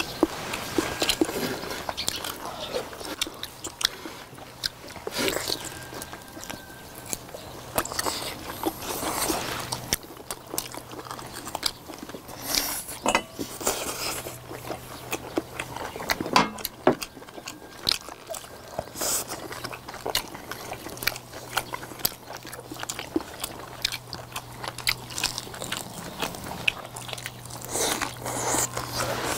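Close-up eating sounds of people chewing braised beef short ribs, with scattered short sharp clicks.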